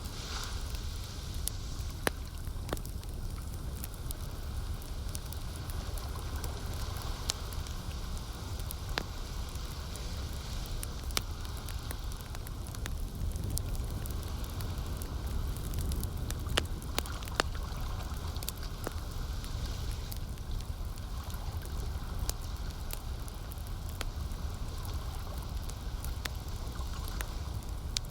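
Wood campfire crackling, with scattered sharp pops over a steady low rumble and the wash of lake water.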